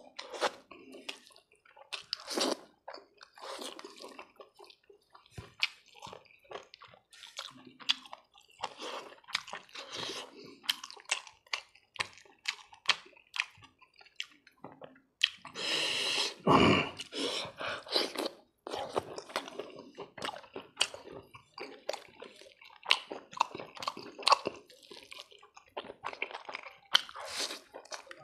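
Close-miked wet chewing and lip smacking while eating fatty boiled pork and rice by hand, a steady run of short clicks and squishy mouth noises. About halfway through there is one longer, louder noise.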